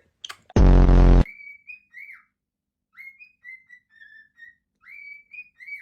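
A short, very loud harsh buzz about half a second in. Then a parrot whistles a string of short high notes, some swooping up and some dropping in pitch.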